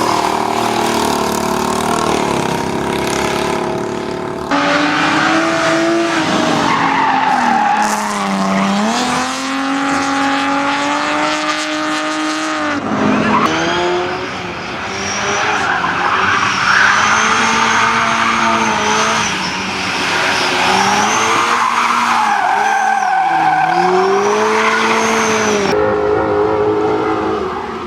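Car engine revving up and down through gear changes as it is driven hard. From about halfway in, tyres squeal repeatedly through corners.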